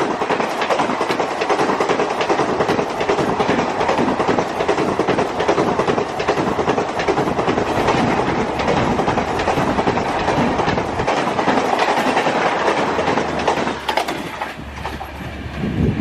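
Indian Railways train passing at speed close by: a steady rush and rattle of wheels on rail with rapid clickety-clack over the joints. The sound drops away about fourteen seconds in as the end of the train goes by, leaving a low rumble.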